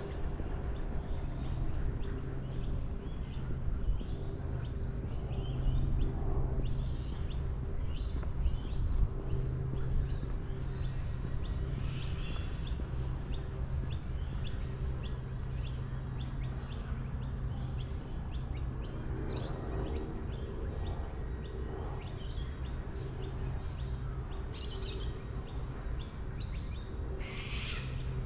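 Birds chirping in quick, repeated short calls over a steady low rumble.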